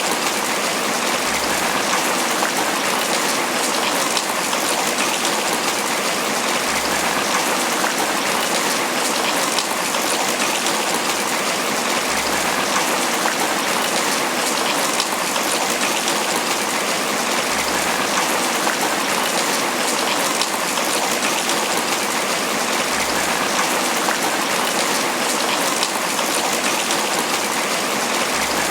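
Steady, heavy tropical rain pattering on banana leaves, an even unbroken downpour.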